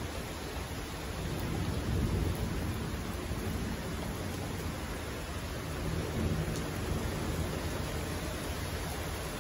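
Thunderstorm: a steady hiss of rain with low rumbles of distant thunder swelling up about two seconds in and again about six seconds in.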